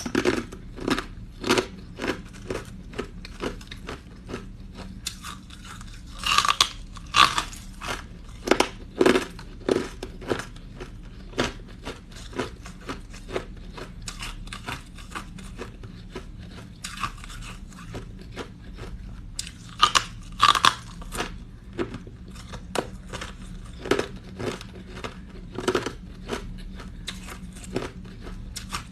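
Person biting and chewing crunchy green ice: a run of sharp crunches, about one or two a second, with louder bites twice, about six seconds in and again around twenty seconds.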